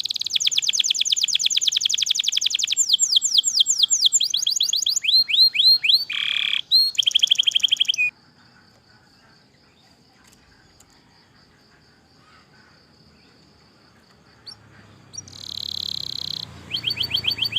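Canary singing a long song of rapid trills and rolls, with runs of quick falling whistles. About eight seconds in it drops to a faint high trill held for about six seconds, and the loud trilling comes back near the end.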